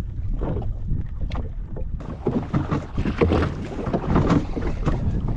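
Wind buffeting the microphone on a jet ski at sea, over a steady low rumble, with irregular splashes of water and rain.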